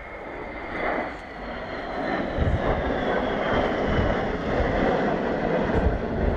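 Jet aircraft engines running, the noise growing louder about two seconds in, with a thin whine that falls slowly in pitch.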